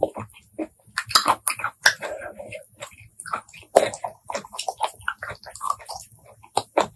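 Close-miked eating of shellfish: irregular wet chewing and lip smacks, mixed with small clicks as a shell and skewer are handled to pick out snail meat.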